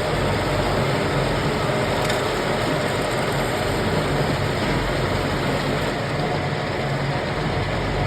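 Lathe running steadily while turning a submersible pump rotor: a constant low motor hum under a dense, even machining noise.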